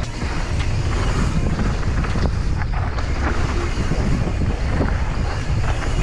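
Wind buffeting a camera microphone on a mountain bike riding fast downhill, over a steady rumble of tyres on rough ground, with scattered sharp clicks and knocks from the bike.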